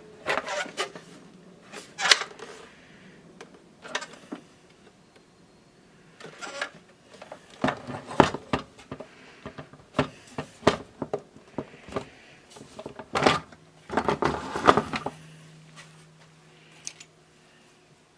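Irregular clicks, knocks and clatter of small parts being handled and fitted into a radio cassette player's plastic case, with busier runs of clicking partway through.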